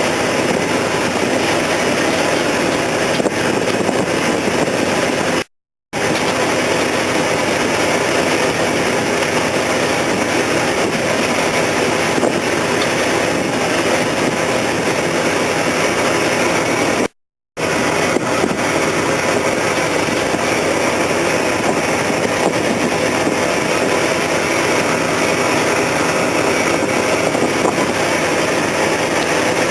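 Loud, steady engine noise with no clear pitch, cut twice by brief silent gaps.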